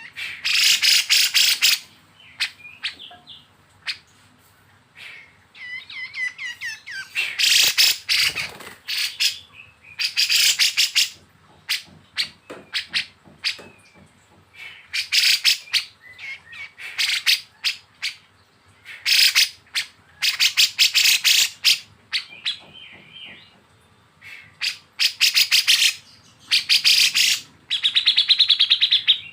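Recorded calls of kapas tembak and cucak jenggot (grey-cheeked bulbul) giving harsh, rapid rasping rattles ('besetan'). The rattles come in repeated bursts of about a second each, with a few short warbled phrases between them.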